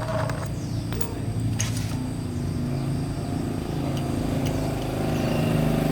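An 8 HP four-stroke diesel engine running steadily with an even, fast chugging, with a couple of short metallic clicks about one and two seconds in.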